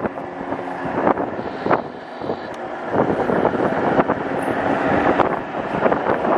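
Wind buffeting the microphone of a moving e-bike, gusty and uneven, with a faint steady hum underneath. It eases briefly about two seconds in.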